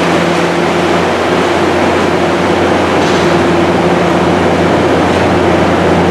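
Railway locomotive running steadily at a standstill: a loud, even drone with a few low hum tones held throughout.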